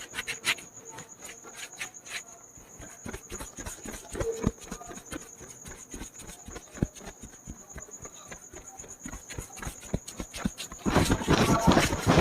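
Hands working on a head in a barber's head massage: quick, irregular taps and rubbing on hair and skin. They become louder and faster about eleven seconds in.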